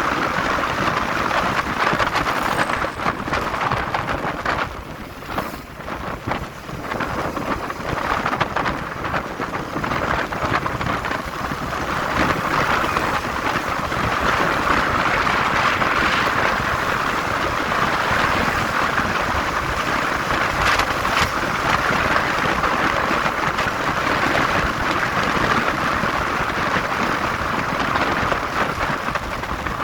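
Steady rush of wind noise and road noise from a moving motorcycle, with no clear engine note; it dips briefly about five seconds in, then comes back.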